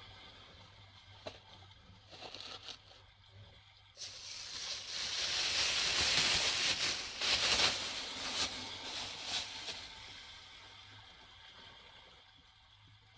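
A sea wave washing up the beach and drawing back: a rush of surf that starts suddenly about four seconds in, swells, and fades away near the end.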